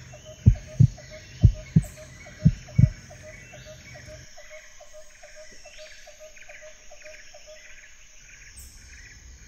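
Crickets chirping in a steady rhythm, about three chirps a second, stopping about eight seconds in. In the first three seconds, three pairs of loud low thumps stand out above the chirping.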